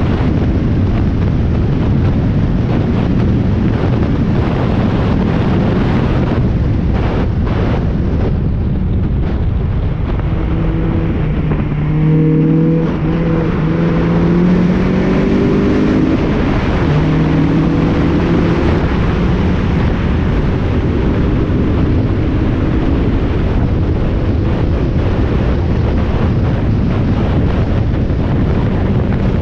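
Spec Miata's four-cylinder engine running hard at racing speed, heard from inside the car under heavy, steady wind and road noise. About a third of the way in the engine note stands out for several seconds, changing pitch as it goes, then sinks back into the noise.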